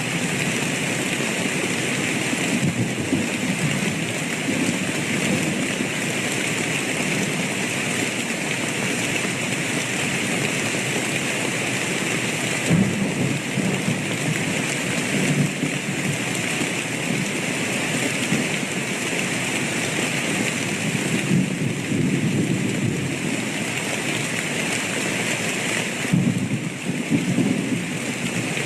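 Steady, heavy rain falling, with low rolls of thunder swelling and fading several times.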